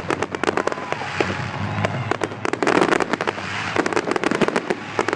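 Fireworks crackling and popping in a dense, rapid stream of small bangs that swells and eases in clusters.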